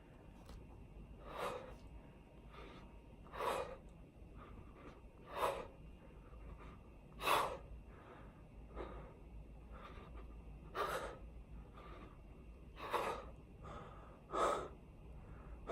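A man breathing hard with exertion during push-ups, a sharp gasp or exhale about every two seconds.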